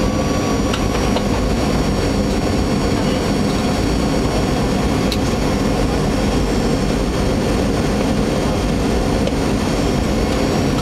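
Steady cabin noise of a Boeing jet airliner on its descent to land: jet engines and rushing air, with a few faint steady tones under it.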